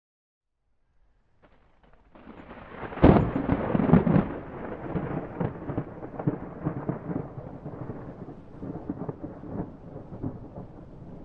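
Thunder: after a brief silence, a rumble builds and breaks into a loud crack about three seconds in, with a second peak a second later, then rolls on in a long, crackling rumble that slowly fades.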